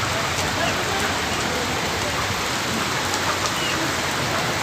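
Rain falling steadily, an even unbroken hiss of rain on surfaces.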